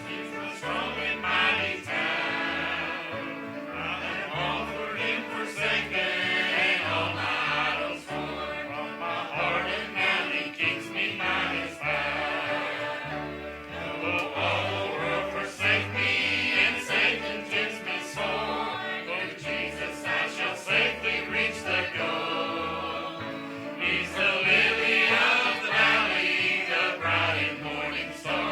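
Church choir singing a gospel song over instrumental accompaniment, with a stepping bass line beneath the voices.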